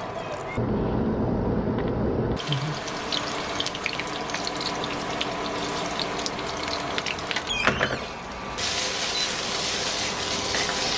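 Running water, like a tap filling or rinsing in a sink, as a steady rushing noise. Its sound changes abruptly about half a second, two and a half seconds and eight and a half seconds in, as between cut-together clips.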